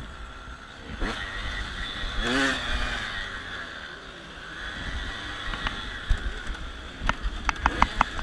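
Dirt bike engine on a motocross track, its revs rising and falling, with a run of sharp knocks and clicks near the end.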